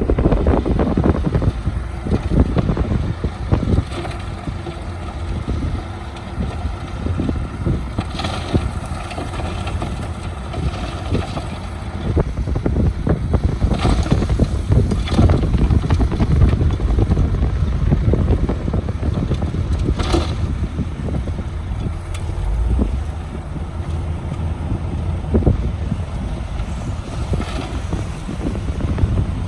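Heavy diesel construction machinery running steadily with a low rumble, wind buffeting the microphone, and a handful of sharp knocks or clanks from the machines or their loads.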